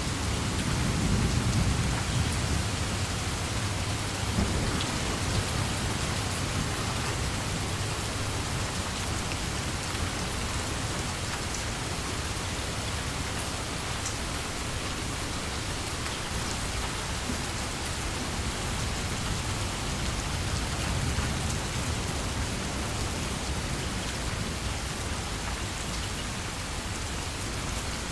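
Steady heavy rain, with a low rumble of thunder swelling soon after the start and again later on.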